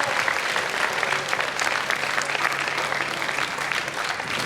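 Audience applauding steadily, dense clapping after a vocal performance.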